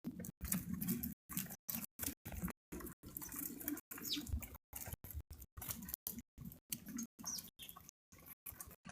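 Small clicks and taps at a backyard feeder, with a few short, high, falling bird chirps. The sound keeps cutting out for brief moments.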